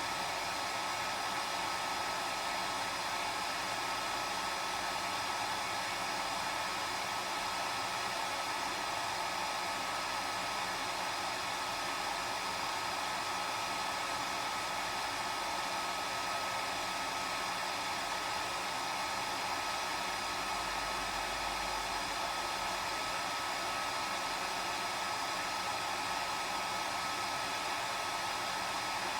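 Hair dryer running steadily: an even rushing blow with a constant whine on top, no change in speed.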